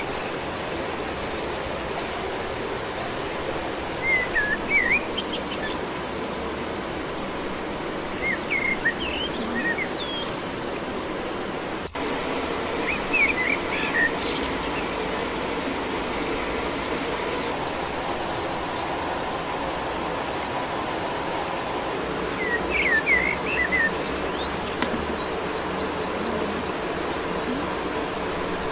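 Forest ambience: a steady rushing background noise with small birds chirping in short bursts every few seconds.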